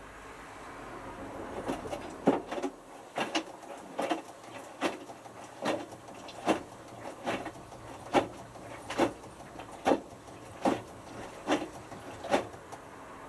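Hotpoint Futura HF8B593 washing machine drum turning during the load-sensing stage of the cycle, with a regular knock about every 0.8 seconds, about a dozen in all. A low hum cuts off about three seconds in.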